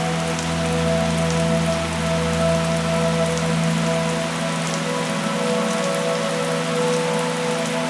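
Steady rain falling, with separate drops ticking through it, over a soft ambient drone of held low notes that change about halfway through.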